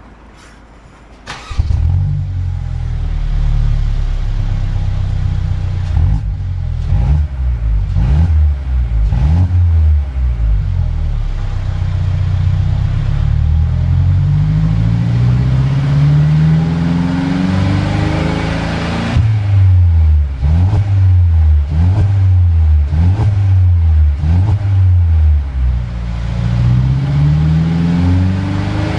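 Mercedes-Benz E200 Coupe four-cylinder engine through an aftermarket exhaust, starting up about a second and a half in, then idling and being revved over and over, with short sharp blips and longer climbing revs that drop back to idle.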